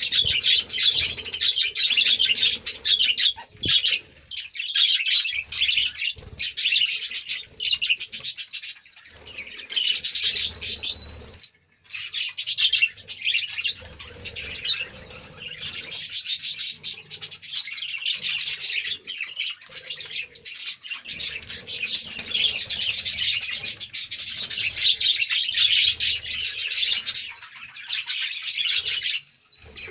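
A colony of budgerigars chattering and chirping all at once, a dense high twittering that dips briefly now and then.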